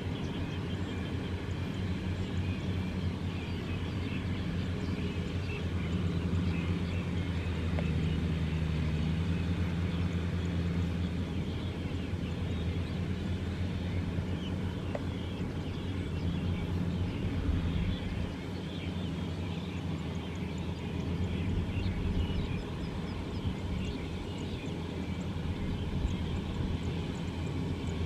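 Kubota M6040SU tractor's diesel engine running steadily under load, its drone swelling and easing slightly as it works.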